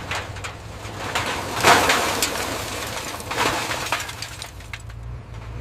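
Scrap metal clattering and crashing: many sharp knocks, with louder crashes about one and a half and three and a half seconds in, over a low steady hum.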